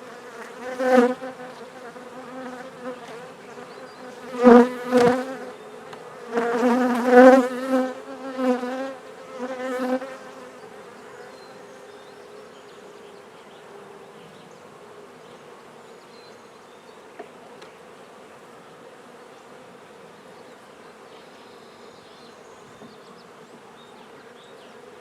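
Honey bees buzzing at an open hive: a steady hum that swells louder several times in the first ten seconds, then settles to an even drone. A few dull knocks come at about four and a half to seven seconds.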